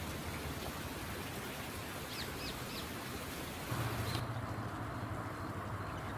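Outdoor park ambience with a steady hiss, and a bird giving three short high chirps about two seconds in. Near the middle a low rumble comes up and the high hiss drops away.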